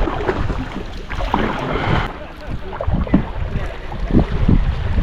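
A canoe being paddled on the river: water splashing and sloshing around the hull, with a splash about a second and a half in. Wind rumbles on the microphone throughout.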